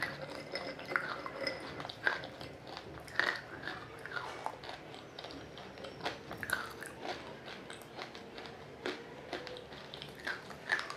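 Close-up chewing and biting of water-soaked chunks of roasted nakumatt: a wet crunch, with short crackles coming irregularly about a second apart.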